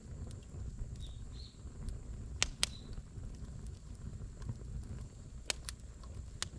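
Wood campfire crackling: a few sharp pops in pairs, about two and a half and five and a half seconds in, and one more near the end, over a low steady rumble.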